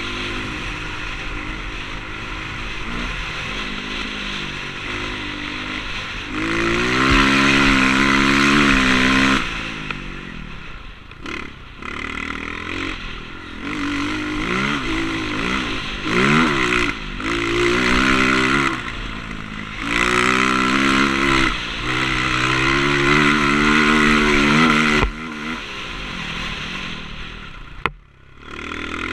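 Motocross dirt bike engine revving hard and easing off again and again, its pitch rising and falling with the throttle, with the loudest stretches in the middle and a short drop near the end.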